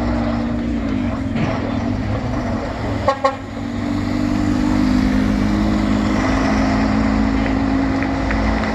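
A vehicle engine runs with a steady drone that grows louder after about four seconds. Two short horn toots sound about three seconds in.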